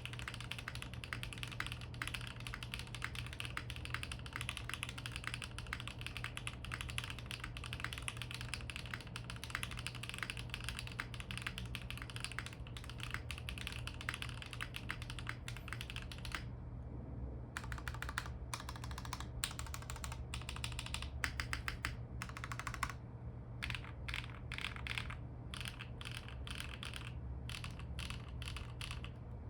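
Fast continuous typing on a foamless custom 65% mechanical keyboard with stock HMX Macchiato linear switches, a carbon fibre plate and ABS Cherry-profile keycaps. A little past halfway the rapid typing stops and gives way to separate presses of the stabilized long keys, such as the spacebar, in short groups, testing the lubed plate-mounted stabilizers.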